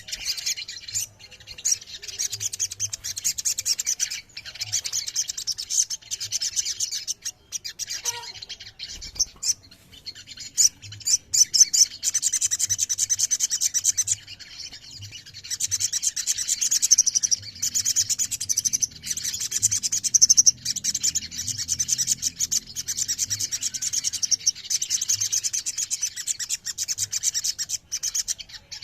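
A group of sogon (sogok ontong) birds singing together in dense, rapid high chirps and trills, thinning out briefly twice before picking up again.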